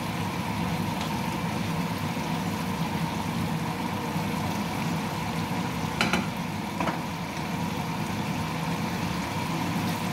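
Chicken stir-frying in a pan, a steady sizzle over a steady mechanical hum, with two short clicks about six and seven seconds in.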